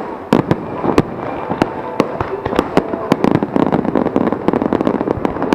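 Aerial fireworks shells bursting with sharp bangs, a few each second. From about three seconds in they turn into a dense, rapid crackle of many small reports.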